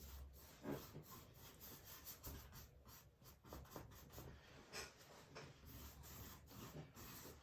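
Faint, irregular strokes of a paintbrush dabbing and rubbing acrylic paint onto a canvas.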